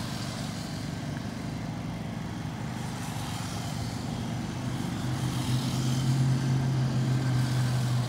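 Radio-controlled race trucks running laps on a dirt track, with a steady motor hum and tyre noise. The hum grows louder about five seconds in as the trucks come closer.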